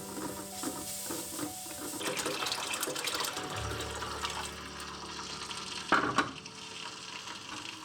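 Water poured into the bottom pot of a momo steamer over fried buff mince and spices to make the soup: a steady splashing pour beginning about two seconds in. A sharp metallic knock comes near the end.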